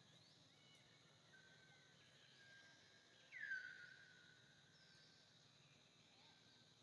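Faint outdoor ambience with a steady high tone and scattered thin whistles, and one louder animal call about three and a half seconds in that drops in pitch and then holds briefly.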